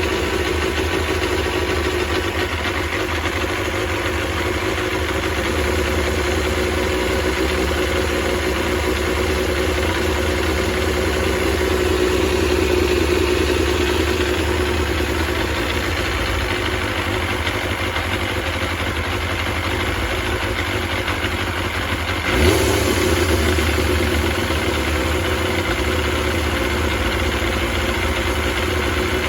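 Kawasaki Balius's 250 cc inline-four engine idling steadily on freshly fitted carburetors, with one brief throttle blip about two-thirds of the way through.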